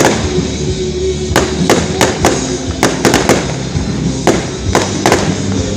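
Fireworks display: irregular sharp bangs, about two a second.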